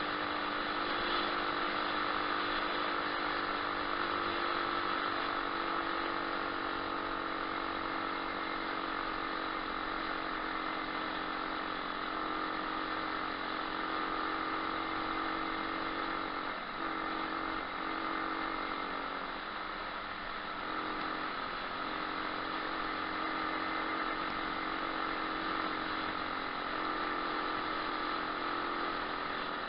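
A 125cc pit bike's single-cylinder four-stroke engine runs at a fairly even speed while riding, with a brief dip and unsteadiness partway through.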